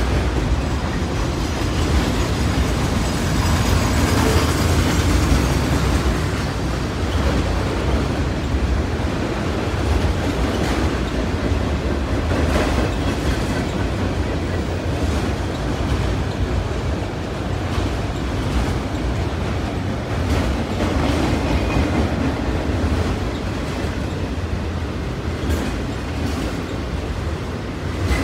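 A freight train of enclosed autorack cars rolling past close by: a steady rumble and rattle of the cars, with the wheels clicking now and then over the rail joints.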